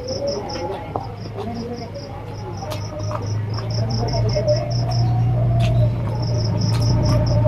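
A cricket chirping in rapid trains of evenly spaced pulses, about seven a second, broken by short pauses. Under it a low steady hum grows louder from about halfway, with a few scattered clicks.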